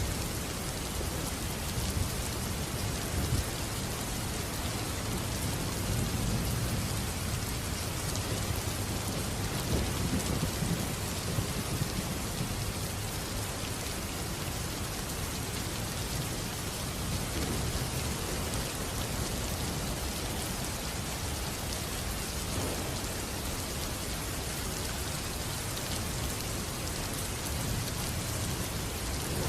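Steady heavy rain falling, with low rolling thunder rumbling underneath that swells and fades.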